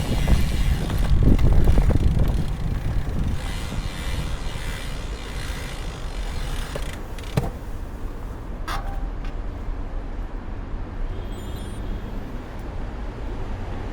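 Road traffic on wet streets: a vehicle passes loudly in the first two seconds, then a steadier hiss of tyres and air, with two sharp clicks about seven and nine seconds in.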